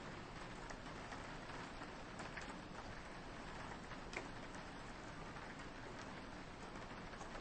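Soft steady rain pattering on a window, with scattered individual drop taps, one a little louder about four seconds in.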